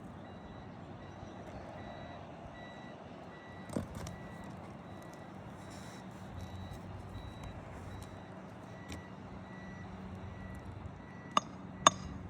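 A vehicle's backup alarm beeps steadily, about twice a second, over outdoor background noise. There is a single knock about four seconds in, and two sharp hammer strikes near the end.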